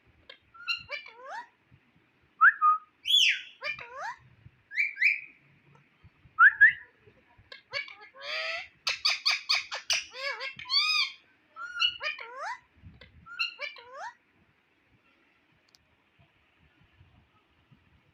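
Indian ringneck parakeet whistling and calling in short, sliding notes, with a harsh note and a quick run of sharp chattering notes about halfway through. The calls stop a few seconds before the end.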